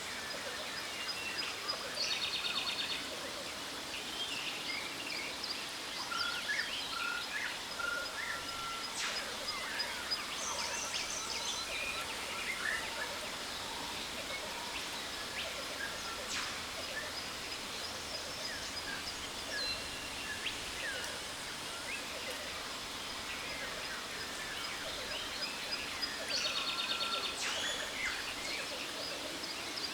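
Tropical jungle ambience: many birds chirping, whistling and trilling, with rapid stuttering trills about 2 seconds in and again near the end, over a steady rush of water from a waterfall.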